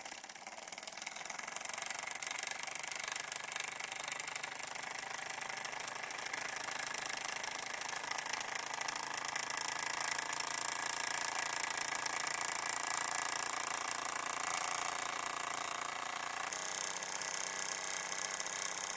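Ernst Plank toy vertical steam engine running at speed, a rapid, even mechanical beat that builds a little over the first two seconds and then holds steady.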